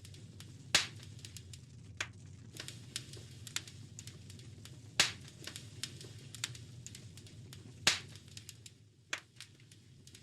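Wood fire crackling in a fireplace: a steady run of small snaps and clicks over a low rumble of flame, with three loud pops, about a second in, near the middle and near the end.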